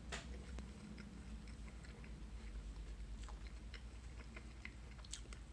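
A person chewing a bite of raw apple, mostly flesh with a little core: faint, with many small irregular crunchy clicks.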